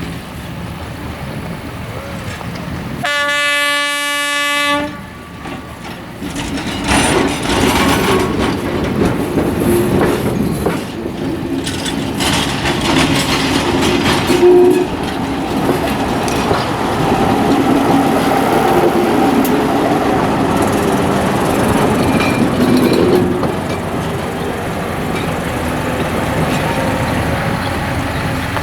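Train horn sounding one steady blast of about two seconds, then a train passing close by, its wheels clattering over the rail joints.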